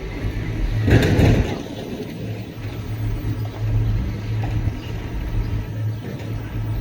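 Boat engine running with a steady low rumble, with a brief rush of noise about a second in.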